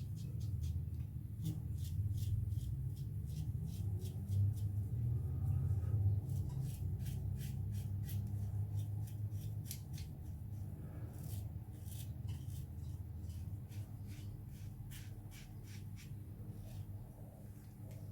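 Double-edge safety razor (Gillette Black Beauty adjustable) scraping through lathered stubble in short strokes, a quick crisp rasp with each one, about two to three a second, over a low steady hum.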